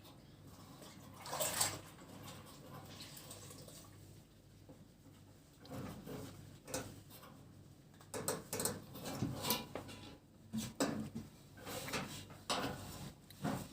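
Light clicks, taps and scrapes of small metal gas stove parts being handled as a drilled-out burner jet is fitted back into place. There is one sharp click early, then a run of quick taps and clicks in the second half.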